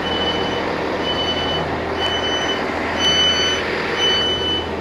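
An electronic warning beeper sounds five even high beeps, about one a second, over a steady low engine rumble. This fits a train's door-warning alarm as the train stands at the platform.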